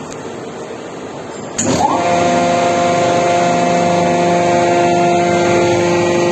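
A 310.112 hydraulic pump on a motor-driven test rig starts about one and a half seconds in. Its pitch rises quickly, then it runs with a steady, loud whine over a background hum that was already there.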